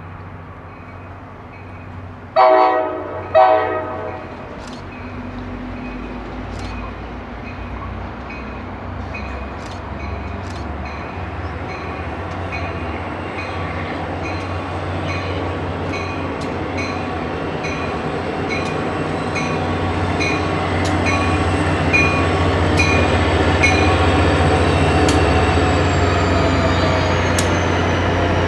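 An NJ Transit GP40PH-2B diesel locomotive sounds two short horn blasts, then comes in with its engine growing steadily louder as it nears. A bell rings at an even pace through most of the approach, with scattered clicks from the wheels.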